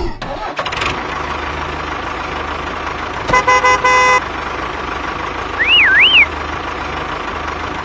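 A vehicle horn honks twice in short toots near the middle, over a steady background hum. A little later comes a brief warbling whistle that rises and falls twice.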